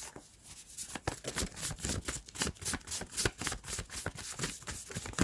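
A deck of tarot cards being shuffled by hand: a quick, uneven run of papery clicks and flicks.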